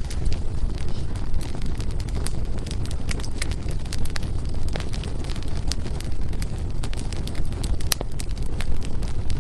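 Wood fire burning with a steady low rumble of the flames and frequent irregular sharp crackles and pops of the burning firewood, one louder pop near the end.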